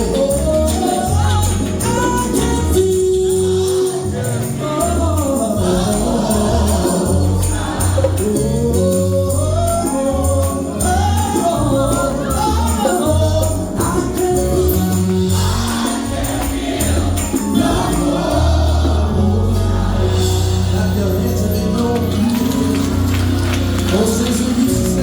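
Gospel music: a vocal group singing with band accompaniment and tambourine, over a steady low bass line.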